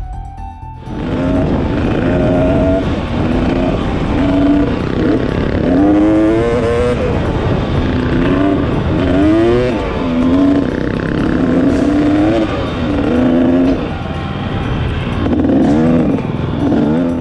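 Motorcycle engine running under way, its pitch rising and falling again and again as it is revved and shifted, over steady wind rush.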